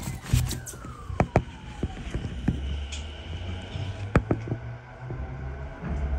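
A Musashino Line electric train heard from inside the carriage while running: a low rolling rumble with sharp clacks of the wheels over rail joints. A motor whine falls steadily in pitch over the first two seconds.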